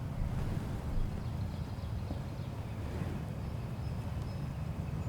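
Steady low rumble of wind on the microphone, with a few faint, thin high tones.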